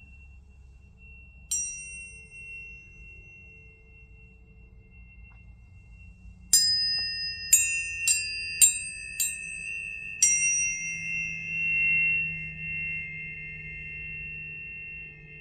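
Tuning forks struck and left ringing. A high tone hangs throughout, then one strike comes about a second and a half in, and a quick run of six strikes follows from about six and a half seconds. Each strike gives a bright metallic ping that fades into steady ringing tones, two or three pitches sounding together.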